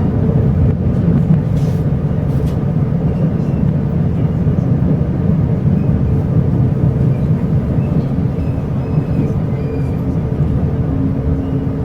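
Steady rumble of a Chu-Kuang express passenger car running along the track, heard from inside the carriage.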